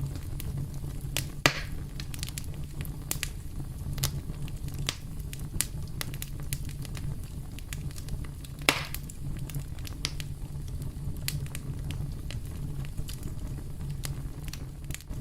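Campfire burning: wood crackling with frequent small pops over a steady low rumble, with two louder pops, one about a second and a half in and one near nine seconds in.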